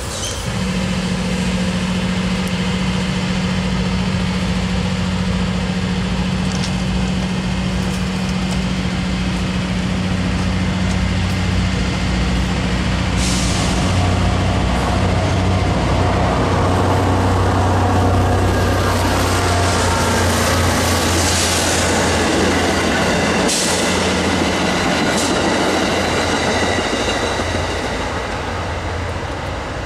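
Diesel-electric freight locomotives running as a freight train rolls slowly past. A steady engine drone sits under the rumble of the wheels, and faint high wheel squeal comes in during the second half.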